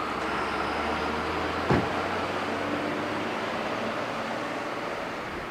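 Heavy machinery running steadily: an Ufkes Greentec 952 Mega wood chipper and the engine driving it, with a low engine hum. A single sharp knock comes about two seconds in, and the noise slowly fades toward the end.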